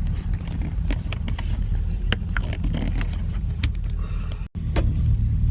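Car exhaust through a Flowmaster 50 chambered muffler heard from inside the cabin while driving: a steady low drone with scattered light clicks, cutting out for an instant about four and a half seconds in.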